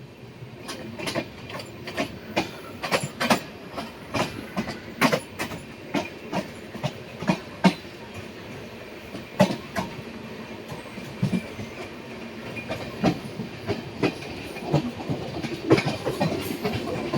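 Train running on the line, its wheels clacking over rail joints, many sharp clicks, often in pairs, over a steady rumble.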